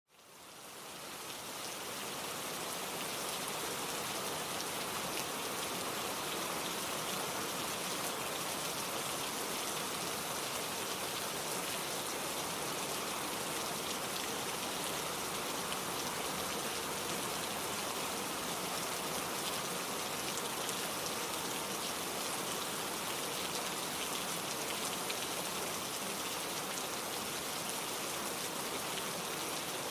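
Steady rain falling, an even hiss of many drops, fading in over the first couple of seconds.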